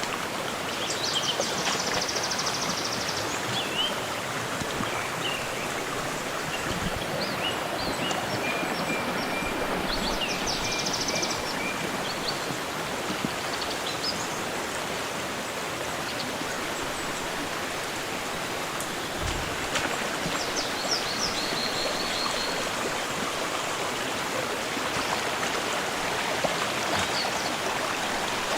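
Stream water rushing steadily, with birds calling over it now and then in short, high trills.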